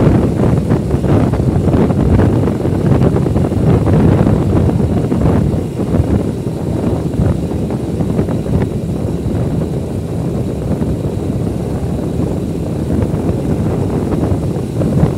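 Steady, loud vehicle-ride noise dominated by wind rumbling on the microphone, with gusty surges.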